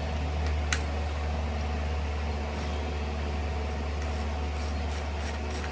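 Steady low hum, with one sharp click about three-quarters of a second in and a few faint light ticks afterwards.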